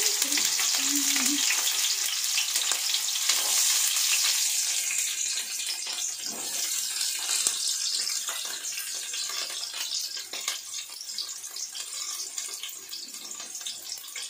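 Green chillies and curry leaves sizzling and crackling in hot oil in a steel pan. The sizzle is loud at first and dies down steadily after about four seconds.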